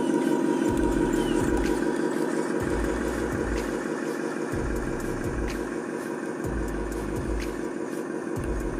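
Truck engine running steadily, with a low rumble that swells and drops about once a second.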